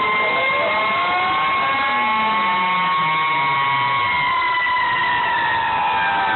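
Several fire truck sirens sounding at once, overlapping steady wails; one climbs slowly in pitch over the first four seconds, then starts to wind down.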